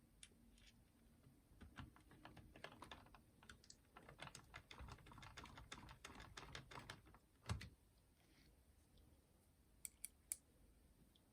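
Faint clicks, taps and rustles of small parts and tools being handled during repair work, busiest in the middle. There is one louder knock about two-thirds of the way in and three sharp clicks near the end.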